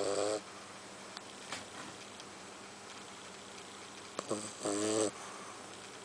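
French bulldog puppy snoring in its sleep: one snore fading out just after the start, then about four seconds in a short snore followed at once by a longer one. The snoring is typical of the breed's short, flat muzzle.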